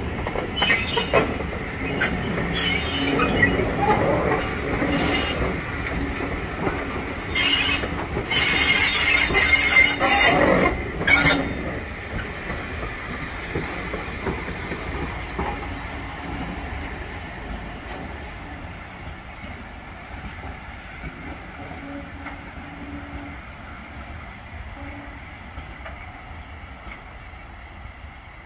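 Steam-hauled train of passenger carriages rolling slowly along curved track, wheels squealing with irregular sharp clanks and screeches for the first dozen seconds, then fading steadily as the train draws away.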